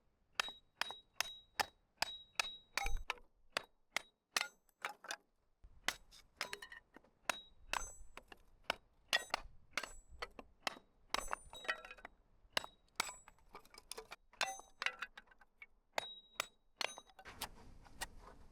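A long series of sharp metallic clinks and knocks, about two a second in runs with short pauses, several leaving a brief high ring.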